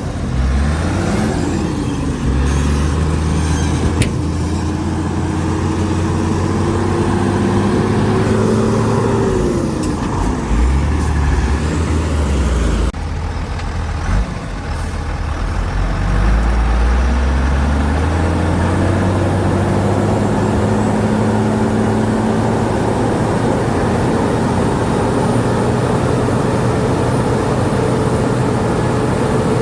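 Heavy diesel engine of earthmoving machinery running under changing load, its pitch sagging and climbing. It drops and quietens briefly about halfway through, then climbs back up and holds steady, with a single sharp knock a few seconds in.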